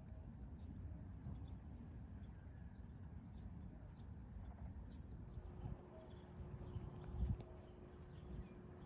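Faint outdoor rural ambience: a low rumbling noise with scattered short, high bird chirps. A faint steady hum joins about halfway through.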